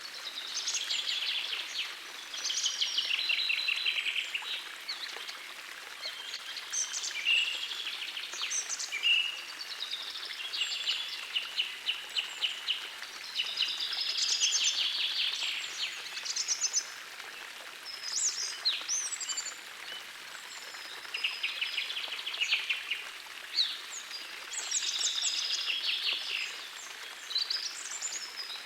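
Songbirds singing in a forest, phrase after phrase every few seconds, many of them rapid trills, over the steady rush of a gentle forest stream.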